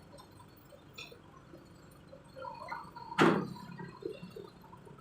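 A single sharp knock a little after three seconds in, over a low background.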